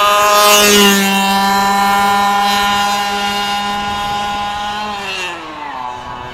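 The two-stroke 32cc gas engine of a 1/5-scale Redcat monster truck held at high revs with a steady high pitch. Near the end the revs drop and the sound fades.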